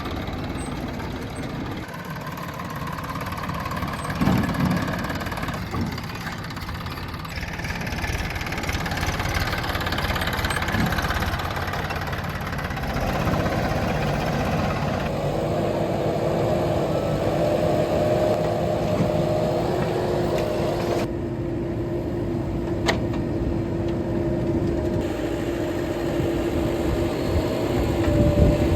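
Heavy diesel engines of earthmoving machinery and trucks running, the sound rising and falling with the work. About halfway through, a steady whine sets in and holds.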